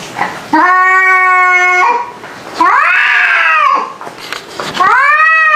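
Cats caterwauling in a fight standoff: three long yowls, the first held at a steady pitch, the next two rising and falling.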